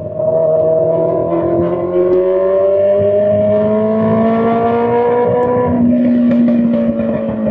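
Straight-piped Honda CBR600 inline-four engine accelerating hard, its note climbing steadily for about five seconds, with a change in note about six seconds in.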